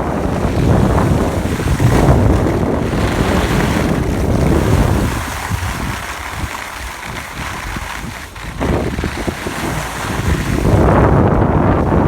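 Wind rushing over the microphone of a camera carried by a downhill skier, with the hiss of skis on snow. It eases off about halfway through and comes back strong near the end.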